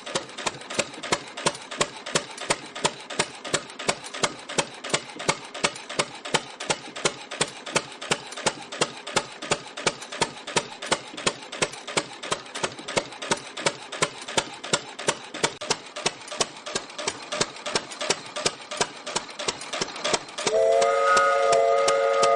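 Old Fairbanks Morse stationary engine running with a steady, sharp beat of about two strong knocks a second. Near the end a loud whistle sounds for about two seconds over it.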